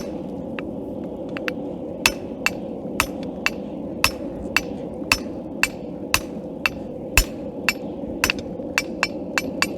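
Forging hammer striking hot steel on an anvil, forging a set down that isolates the leaf on a knife blank. The sharp, ringing blows come a few at a time at first, then steadily at about two a second over a steady rushing background.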